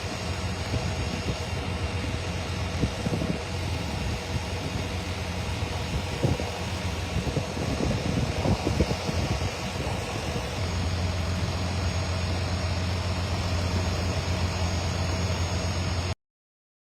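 Vehicle engine running with a steady low hum, heard from inside the vehicle, with a few brief knocks. The hum grows stronger about ten seconds in, and the sound cuts off suddenly near the end.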